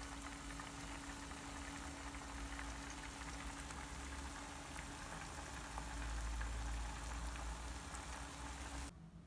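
Battered pieces shallow-frying in hot oil in a nonstick frying pan: a steady sizzle with fine crackles over a low steady hum, stopping suddenly near the end.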